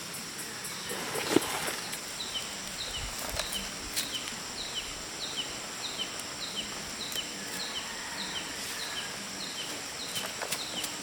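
A bird calling in a steady series of short, falling chirps, about two to three a second, with a few light knocks and rustles of handling.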